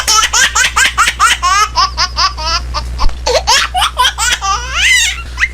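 High-pitched, childlike laughter: a rapid, unbroken string of short squealing peals, about four or five a second, which cuts off abruptly at the end.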